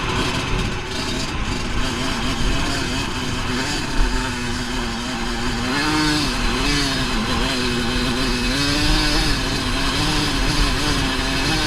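Dirt bike engine running, its pitch rising and falling repeatedly as the throttle is worked. A brief knock about four seconds in.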